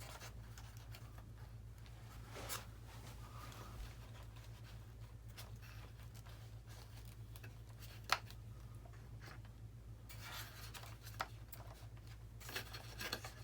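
Faint handling noises from working on an RC model airplane: light rubbing and small clicks as its parts and wiring are shifted into line, with one sharper click about eight seconds in. A steady low hum runs underneath.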